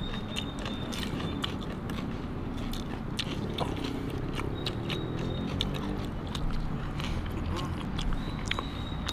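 Two people chewing mouthfuls of chicken tandoori tikka, with many short mouth clicks scattered through.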